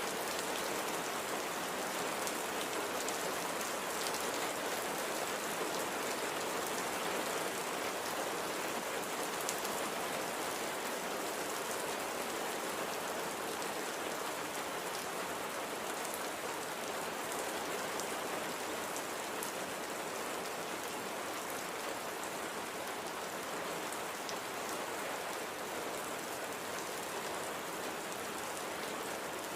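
Steady light rain falling, an even hiss with scattered drops pattering on a surface.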